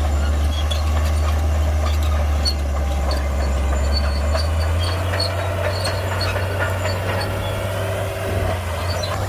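Heavy Shantui bulldozer's diesel engine running steadily while working soil, its deep note shifting slightly about four and a half seconds in, with scattered light clanks and knocks.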